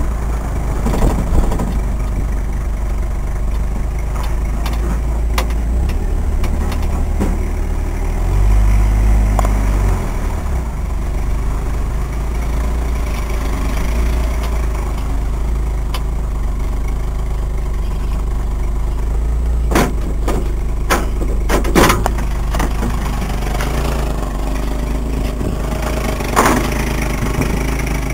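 Cab of a 1985 Jeep Grand Wagoneer on the road: the V8 runs with a low, steady drone that swells briefly about a third of the way in, quiet inside now that the muffler has been fixed. A few sharp knocks or rattles come in the latter part.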